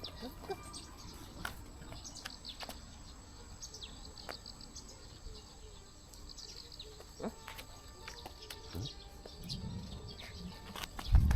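Small birds chirping here and there, short high calls over a quiet outdoor background. A short low thump near the end.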